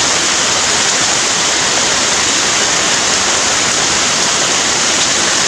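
Heavy rain pouring down steadily, a loud, even hiss with no let-up.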